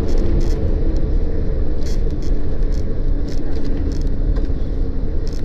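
Airliner cabin noise on the ground after landing: a steady low rumble from the engines and the wheels rolling, with faint engine tones and scattered light rattles of cabin fittings.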